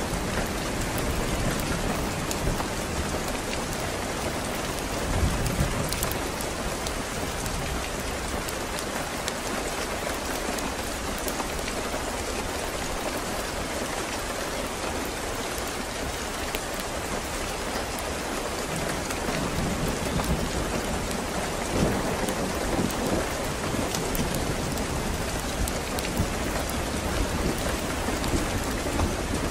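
Steady rain falling, with low rolling thunder that dies away a few seconds in and rumbles up again past the middle.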